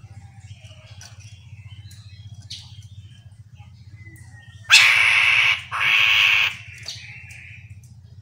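Chestnut-capped laughingthrush calling: scattered faint chirps, then two loud, harsh calls about a second long each near the middle. A low steady hum runs underneath.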